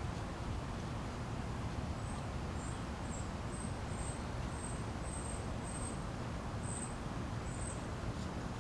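Outdoor backyard ambience: a steady low background rumble, with a small animal giving short, high chirps about twice a second from about two seconds in until near the end.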